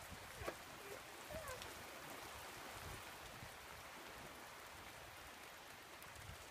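Faint, steady hiss of rain falling, with a few brief faint pitched glides about half a second to a second and a half in.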